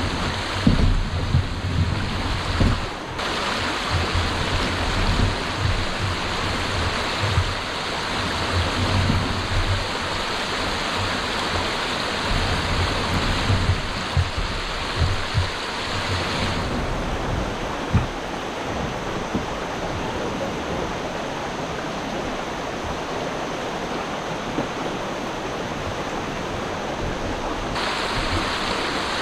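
Wind buffeting the microphone over a steady rush of water. The hiss drops suddenly about sixteen seconds in and comes back near the end.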